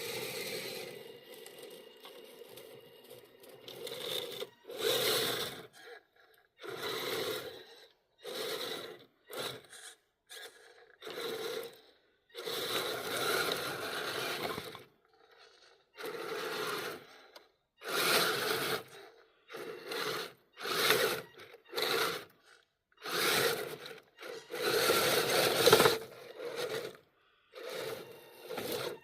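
Electric motor and geartrain of a radio-controlled crawler truck whining in many short stop-start bursts of throttle, each lasting from a fraction of a second to about three seconds.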